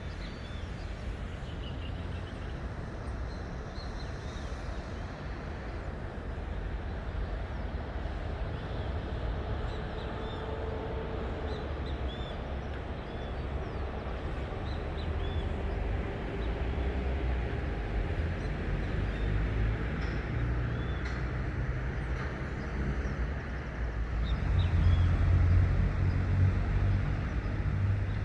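Gusty storm-front wind buffeting the microphone as a low rumble that swells into a stronger gust near the end, with birds chirping faintly throughout.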